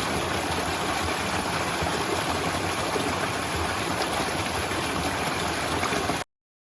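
Waterfall: a steady rush of falling water that cuts off abruptly a little over six seconds in, followed by silence.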